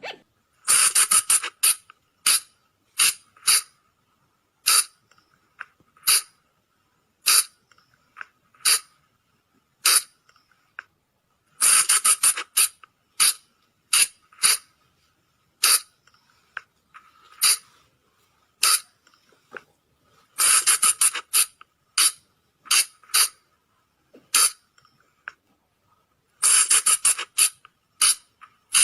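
Flying lemur (colugo) calling: short, sharp, high squeaky calls, some single and spaced about a second apart, others in quick runs of several calls, with the runs coming back every six to nine seconds.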